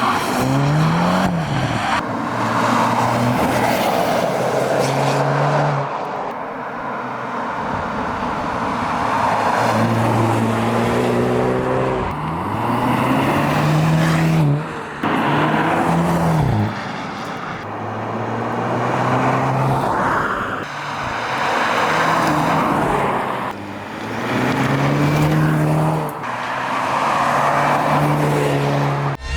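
Hyundai Kona N's 2.0-litre turbocharged four-cylinder engine and exhaust revving hard, its note rising and falling again and again as the car accelerates and eases off through the gears.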